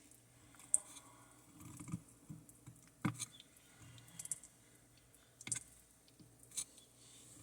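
Red-footed tortoise biting and chewing raw beef: faint, sharp clicks of its beak on the meat, about once a second.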